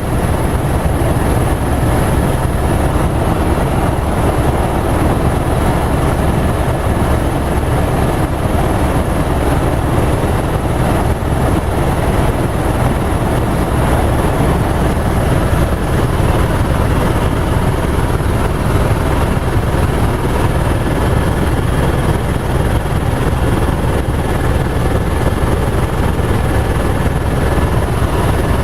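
Helicopter engine and rotor running steadily and loudly, with no rise or fall.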